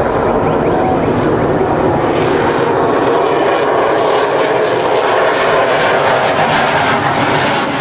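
Sukhoi Su-57 fighter's twin AL-41F1 turbofan engines, loud and steady, as the jet flies its display.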